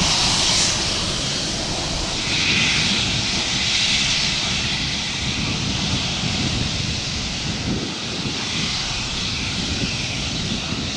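Jet airliner engine noise: a steady, loud rushing sound, strongest in the first few seconds and easing slightly after.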